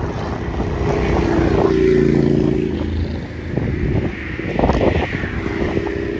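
Wind buffeting the microphone over the hum of a motor vehicle's engine, which swells about a second and a half in and returns near the end.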